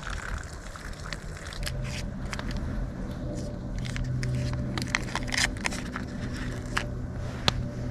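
Campfire crackling, with irregular sharp pops. A low steady hum comes in about one and a half seconds in.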